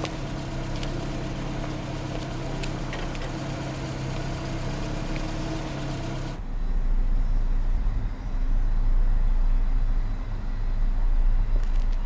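A motor vehicle's engine running steadily with an even hum. About six seconds in, the sound changes abruptly to a louder, deeper rumble.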